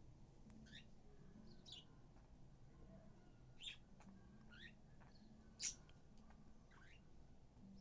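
Budgerigar chirping: about six short, high chirps that slide in pitch, spaced a second or so apart, the loudest about three-quarters of the way through.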